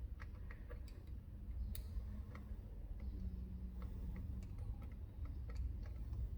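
Light, irregular clicks and taps of small metal parts and tools being handled while the float bowl is taken off a pit bike carburetor, over a steady low rumble.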